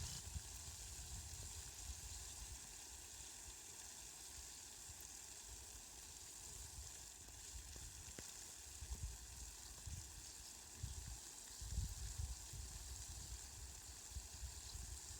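Rain falling in a steady, faint hiss, with low rumbles coming and going, strongest around two-thirds of the way through.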